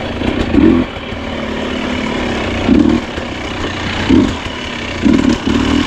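Husqvarna 250 two-stroke dirt bike engine running at low revs, with several short bursts of throttle at irregular intervals.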